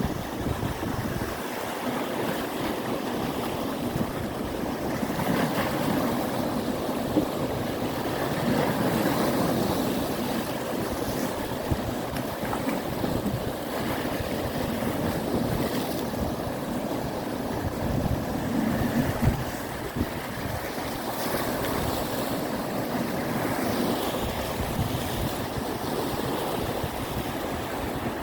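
Steady rushing noise of surf and wind, with gusts of wind buffeting the microphone.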